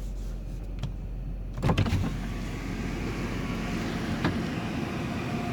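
A minivan's power window going down about a second and a half in, after which a steady outside hiss comes into the cabin over the low hum of the idling engine.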